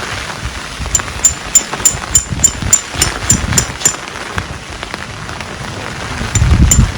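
Heavy rain falling steadily on surfaces. About a second in comes a quick run of about a dozen sharp, high-pitched ticks, about three a second, with two more near the end. A low rumble swells just before the end.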